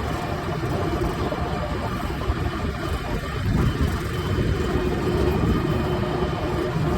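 Diesel engine of a Preet 987 combine harvester running as the machine drives along a road, a steady low rumble that grows a little louder about halfway through.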